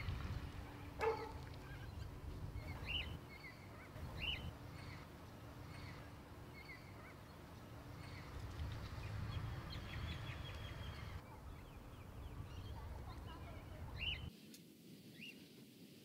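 Birds calling: several short, rising whistled calls, one louder call about a second in, and scattered small chirps, over a low steady rumble. The rumble drops away near the end.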